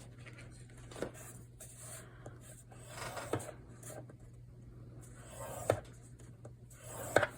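Paper being scored on a scoring board and handled: a few soft taps and short scrapes over a faint steady hum.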